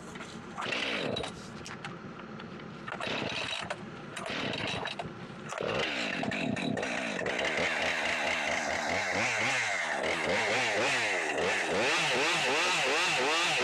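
Chainsaw revved in a few short bursts, then held at full throttle from about halfway through, its pitch wavering as it cuts through a tree limb.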